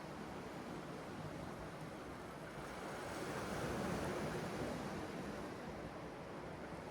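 Sea surf washing in a steady rush, with wind, swelling a little about three to four seconds in.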